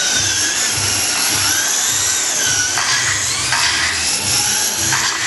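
Several radio-controlled short course trucks racing: high motor whines rising and falling in pitch as the drivers work the throttle, several overlapping at once.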